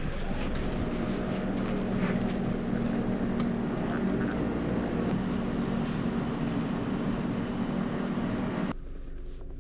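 A vehicle's engine running steadily with a low hum, stopping abruptly near the end.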